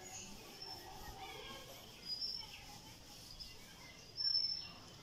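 A bird's short, high chirps, three of them about two seconds apart, the last the loudest.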